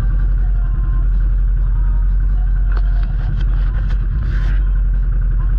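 Steady low rumble of a vehicle running, with a few sharp clicks or knocks about three to four seconds in and a short hiss just after.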